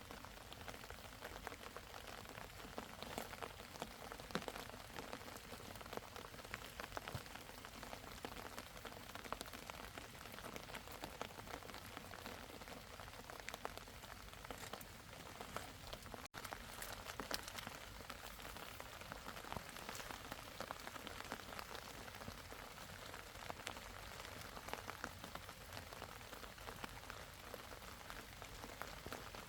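Steady rain falling, many small drop impacts ticking over a constant hiss, briefly cutting out a little past halfway.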